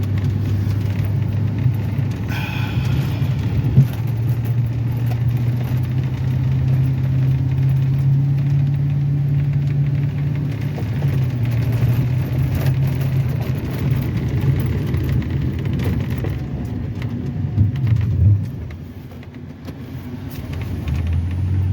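Plow truck engine running, heard from inside the cab, its revs rising and easing as the truck pushes snow and dropping off briefly near the end. A short high squeal sounds about two seconds in.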